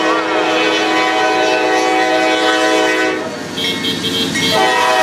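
Air horn of a GE AC44C6M diesel-electric locomotive leading a freight train, sounding a loud chord. One long blast lasts about three seconds, then after a short break a second blast starts near the end.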